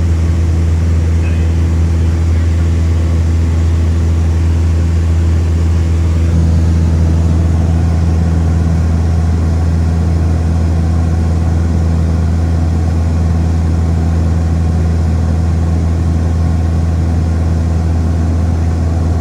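Semi truck's diesel engine running steadily, a constant low drone with no change in speed.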